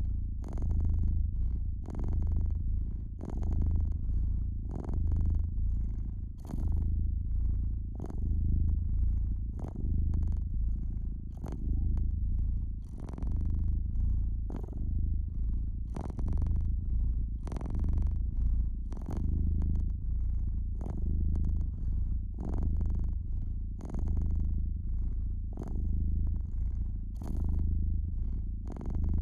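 Domestic cat purring steadily, the low purr swelling and easing with each breath about every two seconds, with frequent sharp crackles from a wood fire.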